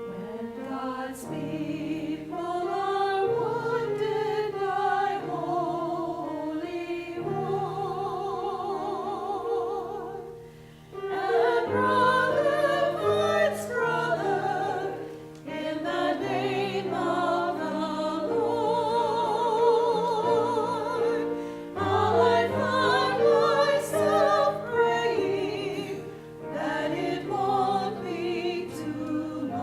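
Church choir singing with piano accompaniment, held notes sung with vibrato.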